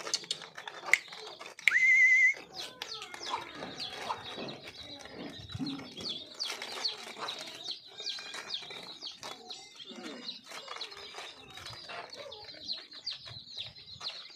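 Small birds chirping repeatedly in quick, high notes. A loud warbling whistle is heard briefly about two seconds in.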